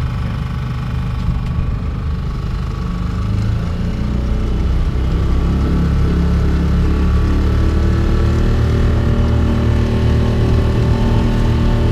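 Tohatsu outboard motor running steadily, with its throttle opened about four seconds in so that it gets louder and then holds there.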